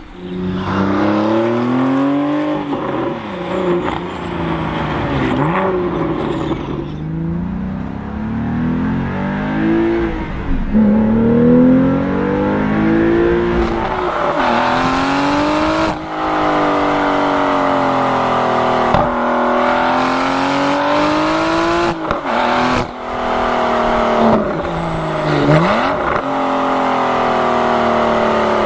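Porsche 991.2 Carrera 4S twin-turbo flat-six with Fabspeed sport headers and sport cats, accelerating hard several times. The pitch climbs through each run and drops sharply at the upshifts, then climbs again.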